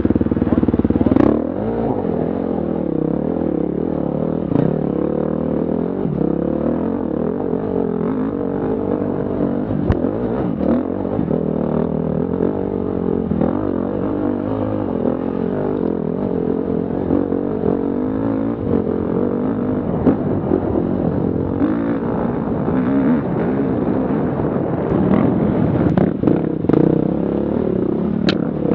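Enduro motorcycle engine heard from a camera mounted on the bike, revving up and down without a break as the rider works the throttle over rough trail, with occasional sharp knocks from the bike over bumps.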